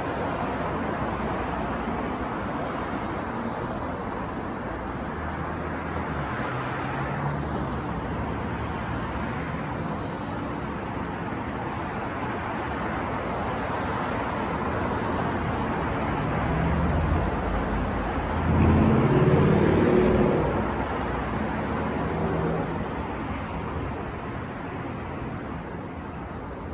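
New York street traffic: a steady rush of passing cars. About two-thirds of the way in, a vehicle's engine swells up close and passes, the loudest moment, before the general traffic noise settles back.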